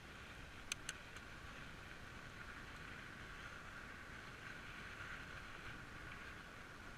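Steady rolling noise and wind rumble from a moving bicycle ride, with two sharp clicks close together about a second in.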